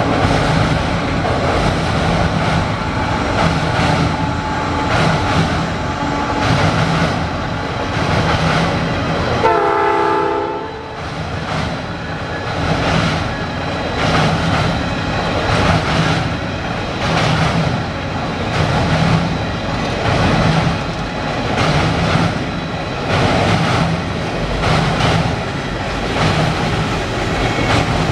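Canadian Pacific freight train rolling past, its cars rumbling with a regular clickety-clack of wheels over rail joints. A short multi-tone horn chord sounds about ten seconds in.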